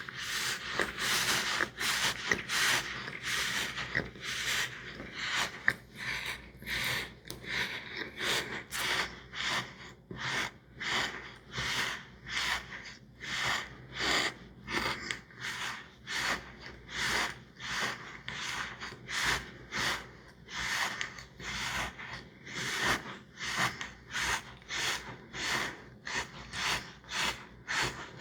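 Close-up chewing: wet, rhythmic mouth noises at about one and a half to two chews a second.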